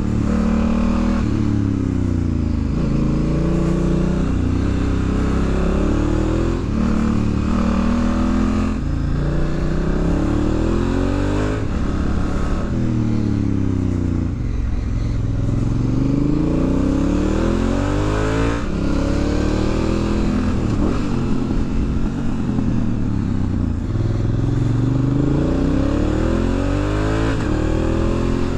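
A 2019 Honda Africa Twin's parallel-twin engine being ridden hard on a twisty road, revving up as the bike accelerates and then dropping in pitch as the rider slows for the next bend. The rise and fall repeats every few seconds.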